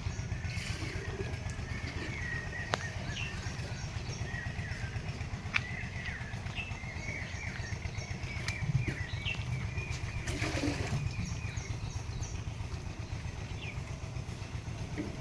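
Small birds chirping repeatedly over a steady low rumble, with a few sharp clicks.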